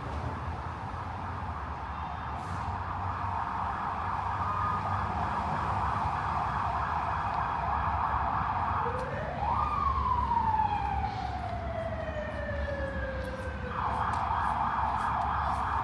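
Emergency vehicle siren in fast yelp mode. About nine seconds in it switches to a single slow wail, rising quickly and then falling over about four seconds, and goes back to the yelp near the end.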